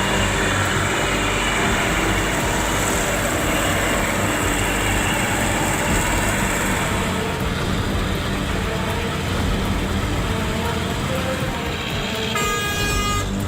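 Log truck's engine running steadily, with a horn sounding once for about a second near the end.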